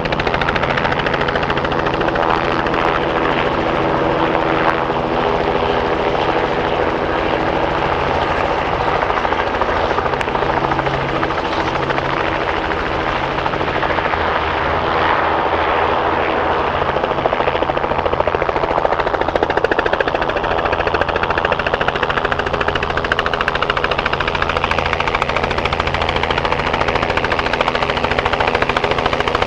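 Helicopter running at a steady level, its rotor beating rapidly over a steady engine drone.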